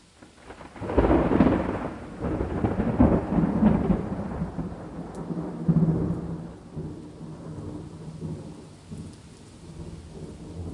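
A thunderclap breaking about a second in and rolling on in several heavy swells of rumbling that slowly die away, with rain underneath.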